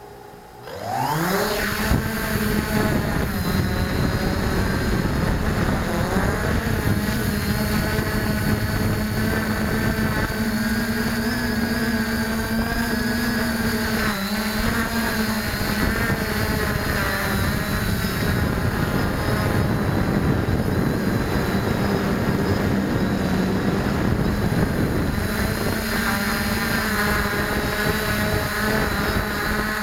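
Quadcopter drone's propellers spinning up with a rising whine about a second in, then a steady buzzing whine that shifts slightly in pitch as the drone flies.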